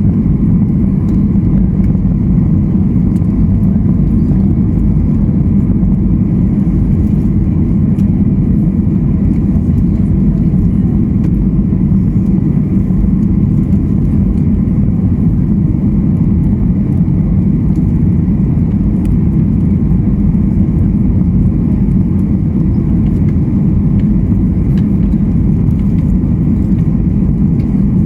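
Steady low rumble of a Boeing 737 in flight, heard inside the passenger cabin: jet engine and airflow noise, holding level throughout.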